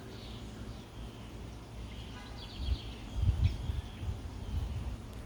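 A small bird chirping: a quick run of short high notes about two seconds in, then a few single chirps. Low rumbles and thumps on the microphone are louder than the chirps.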